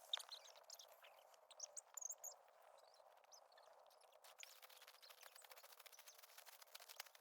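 Faint outdoor quiet with a few bird chirps in the first half, then a run of light, quick clicks and taps from about four seconds in.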